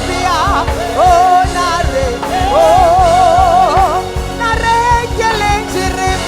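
Gospel worship song: a voice holds long, wavering notes with vibrato over a backing with a steady beat.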